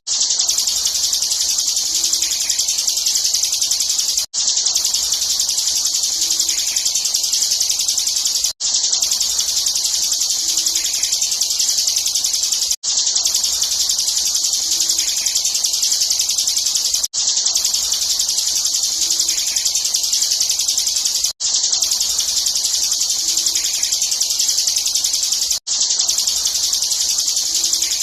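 Bar-winged prinia (ciblek) song in a fast, unbroken high trill ('ngebren'), played as a short recording looped with a brief gap about every four seconds. It is a masteran track used to teach the song to caged contest birds.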